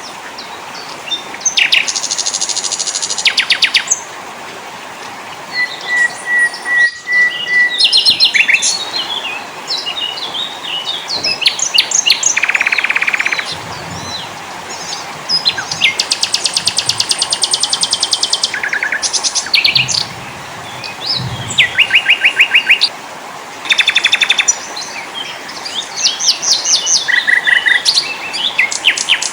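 A mix of small forest songbirds singing one after another: fast trills of rapidly repeated notes, chirps and short whistles, over a steady background hiss.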